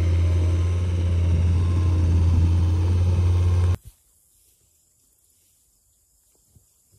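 Tractor engine running steadily with a deep drone; it cuts off abruptly about four seconds in, leaving near quiet with a few faint knocks.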